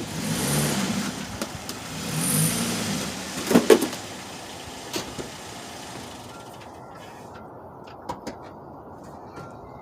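2009 Chevy Cobalt's engine revving in two surges as the car is driven up onto ramps, then a few sharp thumps about three and a half seconds in and lighter knocks after.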